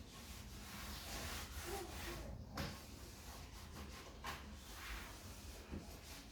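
A cloth wiping a surface in repeated rubbing strokes, with a couple of light knocks about two and a half and four seconds in.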